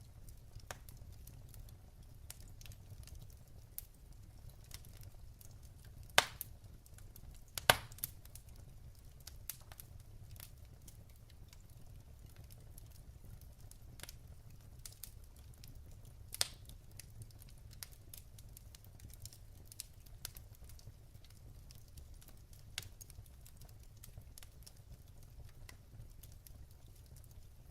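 Wood fire crackling in a fireplace: scattered sharp pops from the burning logs, with louder pops about six, eight and sixteen seconds in and many small ticks between.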